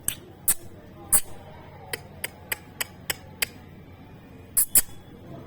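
A parrot's beak clicking and tapping sharply while it eats bread: about a dozen irregular clicks, some in quick pairs.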